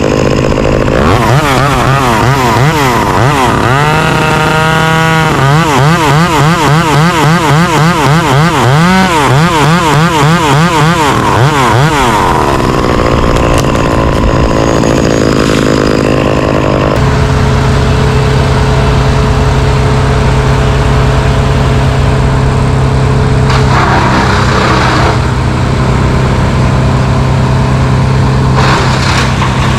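Engine running. For about the first ten seconds its pitch wavers rapidly up and down, then it settles into a steady hum.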